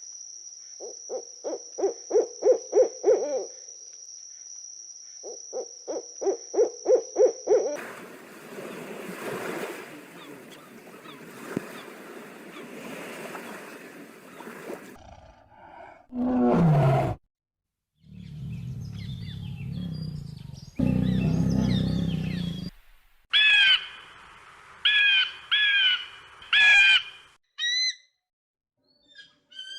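Several short farm-animal recordings cut one after another: two runs of rapid pulsing calls, then a single call that falls steeply in pitch, and repeated short bird calls near the end.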